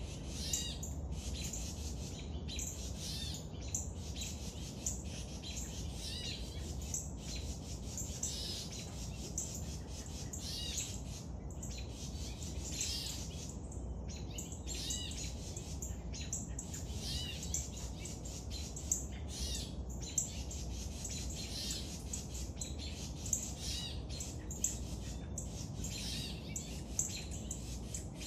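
Birds chirping: quick runs of short, high notes in bursts of a second or two, over and over, with a few sharp clicks in the second half.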